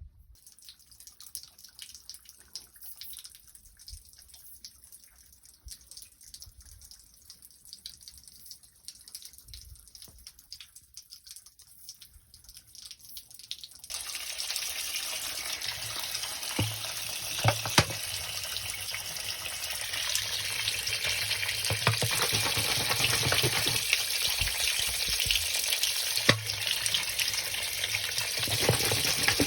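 Faint scattered clicks, then about halfway in a steady rush of running water starts and keeps going, with a few knocks over it.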